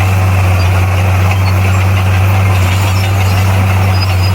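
Bulldozer's diesel engine running steadily: a loud, low, constant drone.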